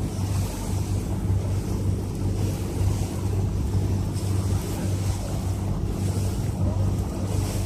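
Motorboat engine running with a steady low hum, with wind on the microphone and the noise of water around the hull.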